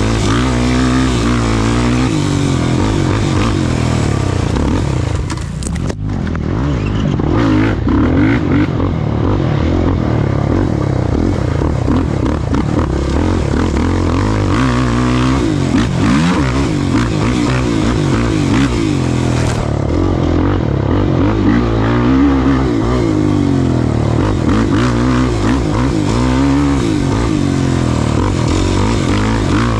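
Race ATV engine revving up and down under constant throttle changes over rough ground, with rattling and scraping from the machine. It briefly drops off the throttle about five seconds in, then picks back up.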